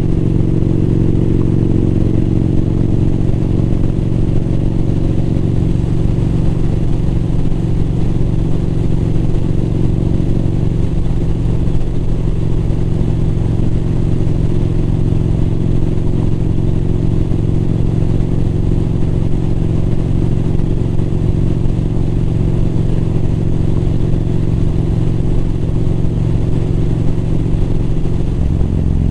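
Motorcycle engine running steadily under way while riding, its tone easing slightly about eleven seconds in.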